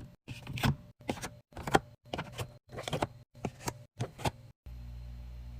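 Groceries and containers being handled and set down while stocking a fridge: quick rustles, knocks and scrapes in short bursts cut tightly together. From about four and a half seconds in, a steady low hum.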